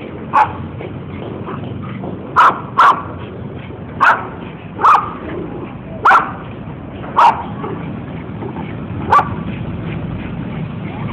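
Kintamani dog barking in about eight short, sharp barks at uneven intervals.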